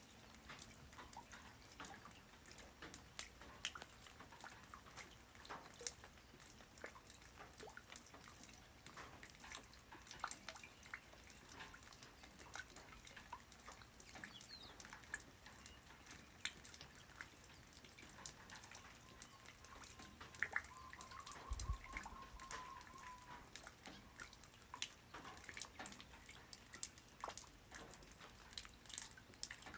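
Light rain falling on the ground, individual drops landing as scattered soft ticks. Past the middle a faint, thin held tone lasts about four seconds, and a single low thump comes about two-thirds of the way in.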